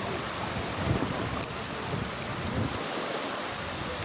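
Wind gusting on the camcorder microphone in low, uneven rumbles over a steady wash of sea.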